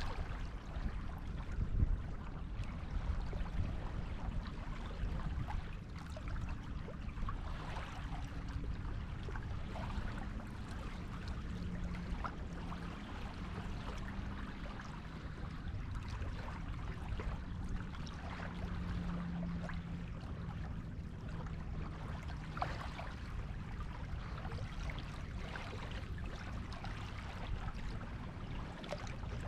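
Waves washing onto a beach: a steady low rumble of surf with scattered fizzing and crackling as the water runs up and drains back.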